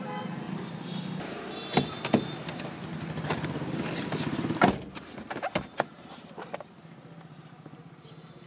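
Car interior: a steady low running hum, with a string of sharp clicks and knocks in the middle, the loudest about two and four and a half seconds in. It grows quieter after about six and a half seconds.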